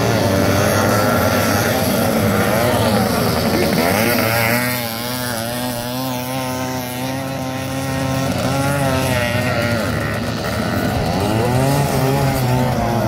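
Several small two-stroke Jawa Pionýr 50 cc motorcycle engines revving together, their pitches climbing and falling as the riders open and close the throttle and change gear. The sound drops slightly through the middle.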